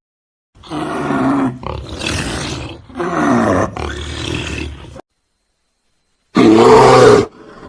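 A big cat roaring and growling in a run of several rough calls, stopping about five seconds in. Near the end a cow begins a loud moo.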